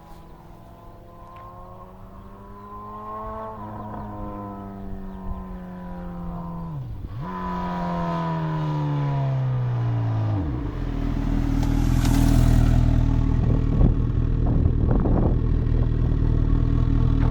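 Honda CB1000R inline-four motorcycle engine through a Laser aftermarket exhaust, running and revving. Its note climbs, then falls away twice as it grows louder. About ten seconds in it settles into a loud, steady low drone.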